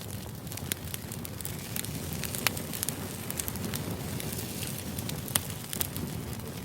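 Wood campfire crackling: a steady low rumble of flames with sharp, irregular pops of burning wood, two of them louder, about two and a half seconds and five and a half seconds in.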